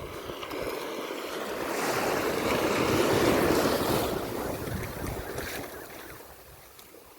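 Sea waves breaking on a beach: a wash of surf swells to a peak a few seconds in, then fades away as the wave draws back, with wind buffeting the microphone.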